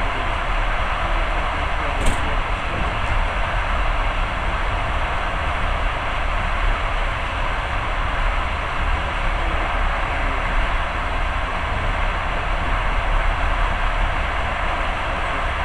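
Passenger train running at speed: a steady rumbling noise of the moving train, with a single short sharp click about two seconds in.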